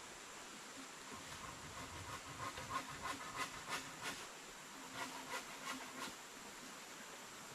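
Steady hiss of a small river flowing. Over it, about two seconds in, come two quick runs of short taps or clicks, roughly three a second, about a dozen in all.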